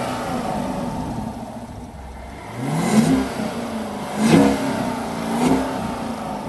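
Chevrolet Camaro SS's 6.2 L V8, fitted with a JLT cold air intake, revved in three short throttle blips and dropping back toward idle between them. The strongest blip comes about halfway in, and the next two follow at roughly one-second intervals.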